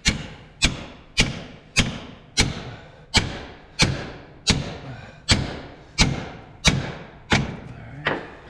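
Steady hammer blows on the steel pin of a track chain, about thirteen strikes at roughly one and a half a second, each ringing briefly. The pin is being driven out and is moving fairly easily.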